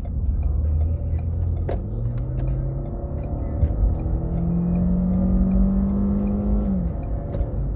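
Ford Fusion's turbocharged four-cylinder engine accelerating, heard from inside the cabin. Its note climbs steadily, then falls sharply near the end as the automatic transmission shifts up.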